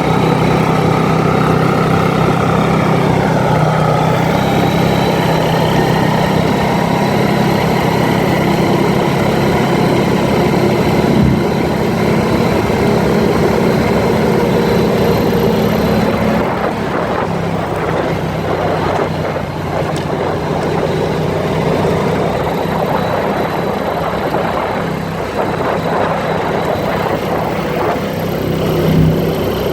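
ATV engine running steadily under way, with wind and trail noise over it. About halfway through the steady engine tone weakens and the sound turns rougher and noisier.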